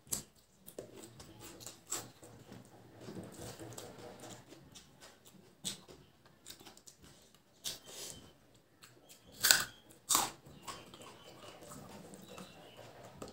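Close-up chewing and mouth clicks from eating a mouthful of mutton curry and rice, with soft squelches of fingers mixing rice on the plate. Two louder sharp noises come close together about two-thirds of the way in.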